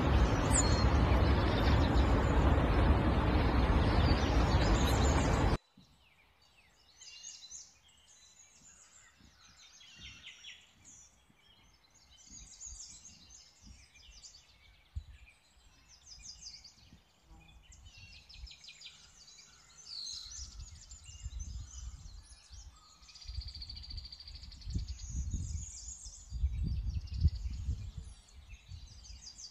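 A loud, steady rushing noise cuts off abruptly about five and a half seconds in. Then, at a much lower level, birds chirp and sing in short scattered calls, with low rumbles coming and going, strongest near the end.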